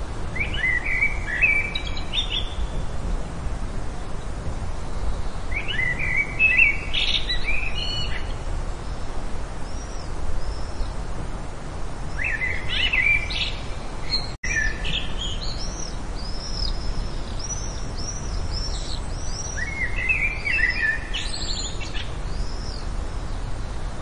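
Birds singing: short chirping phrases, about four of them spaced several seconds apart, with fainter higher notes in between, over a steady background hiss. The sound cuts out for an instant about midway.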